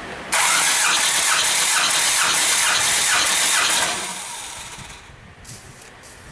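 Hyundai-Kia D4CB four-cylinder diesel engine cranked over on its starter motor for a compression test: a loud, hissing, rhythmically pulsing churn that starts abruptly, lasts about three and a half seconds, then dies away.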